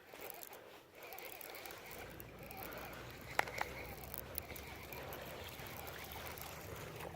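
Faint splashing and trickling water as a small bass is reeled in and landed, with two sharp clicks about three and a half seconds in.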